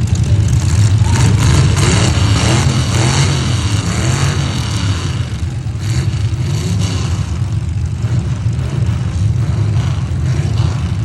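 Demolition derby trucks' engines running and revving hard under a loud low rumble, with a few sharp bangs of trucks colliding, around the second second and again about six seconds in.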